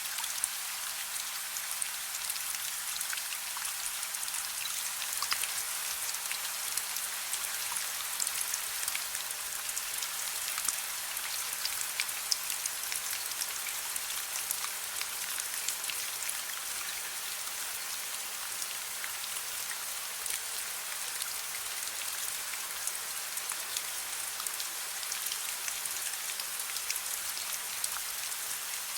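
Steady soft rain: an even hiss with many small, sharp drop ticks on a surface.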